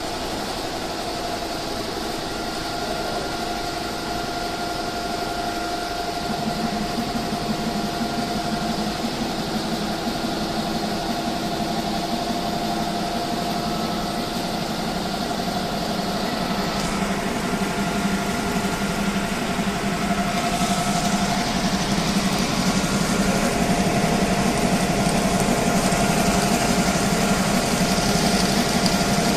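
Richpeace computerized embroidery machine running, stitching with a steady mechanical hum and whir. It grows louder about six seconds in and again in the second half.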